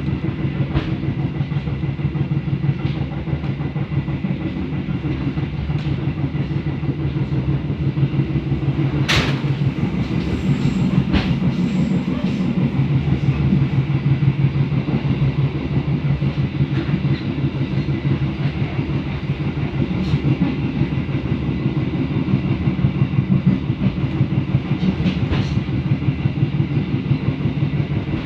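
Passenger train running along the track, heard on board: a steady low rumble with wheels clicking over the rail joints, and a sharp click about nine seconds in.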